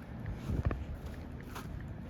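Footsteps on a dirt trail, a couple of strides about a second apart, over a low rumble of wind on the microphone.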